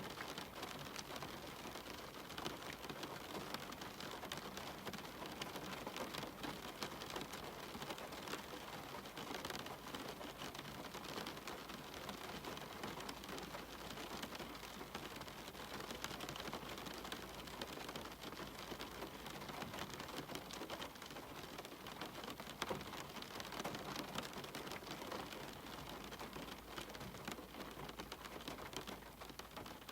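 Steady rain falling, with the patter of many individual drops striking a surface.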